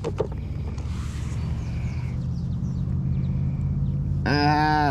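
A steady, low mechanical hum with several even tones, like a small motor running. Near the end a short voiced sound breaks in.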